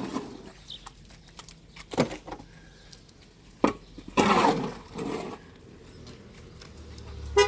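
A few short sharp knocks, about two seconds in and again a little over a second later, then a louder scraping rush lasting about half a second.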